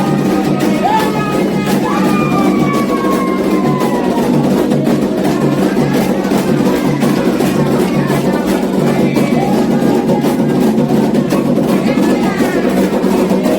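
Candomblé xiré music: atabaque hand drums beating a steady, fast rhythm under group singing.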